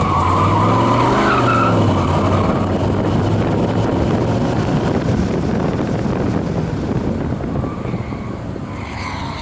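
1993 Ford SVT Lightning pickup's 5.8-litre V8 running hard on a speed run, its pitch rising and then falling about a second in, then running steadily and easing off a little near the end.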